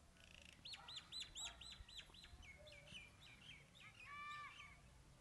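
Faint songbird song: a quick run of repeated chirping notes about a second in, then slower notes and a lower phrase near the end.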